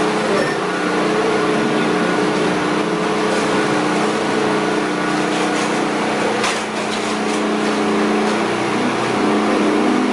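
A machine's engine running steadily at an even pitch, with a few short knocks about six and a half seconds in.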